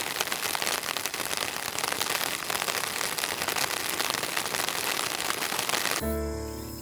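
Rain falling steadily, a dense hiss of many small drop impacts. It cuts off suddenly about six seconds in, replaced by music.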